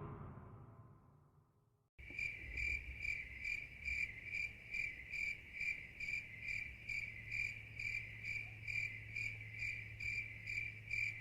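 Crickets chirping, a stock sound effect: a high, even chirp repeating about two to three times a second, starting about two seconds in after a short silence and cutting off abruptly. Before it, the tail of a louder sound fades out in the first second.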